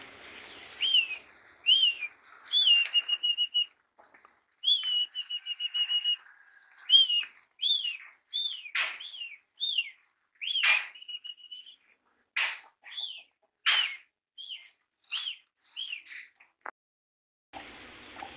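A songbird calling: a string of short whistled notes that rise and fall, with two quick trills of repeated notes early in the run.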